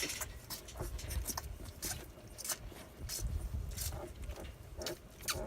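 Young Laika puppies squirming and crawling in their bedding: irregular rustling and scratching, with a few short squeaks in the second half.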